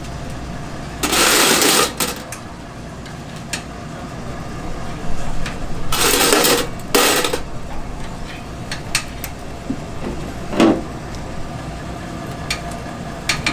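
Restaurant kitchen work noises: three short bursts of rasping noise, scattered clicks and clinks, and one short pitched squeak near the end, over a steady low hum.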